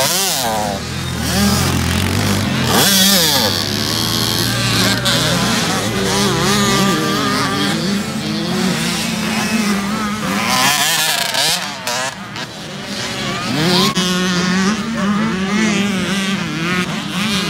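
Several dirt bike engines revving hard and shifting, their pitch rising and falling over and over as the bikes race.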